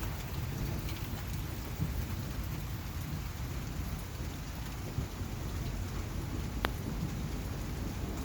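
Steady rain falling in a thunderstorm, with a low rumble of thunder underneath and one sharp tick of a drop near the end.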